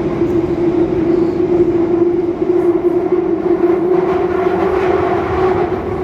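London Underground Northern Line train running through a tunnel: a loud rumble with a steady motor whine that fades out near the end.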